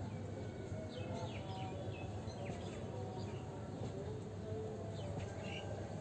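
Outdoor ambience: a steady low background hum with small birds giving short, quick chirps, a cluster about a second in and another about five seconds in.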